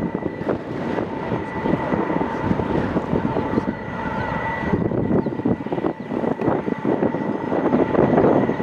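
Jet airliner engines running, a steady rumble with an even high-pitched whine over it.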